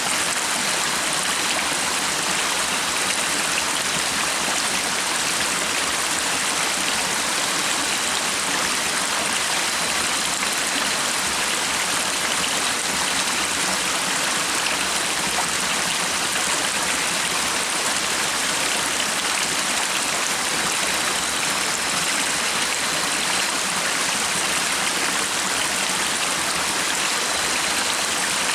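A stream of water running in a steady, even rush, with no breaks or changes.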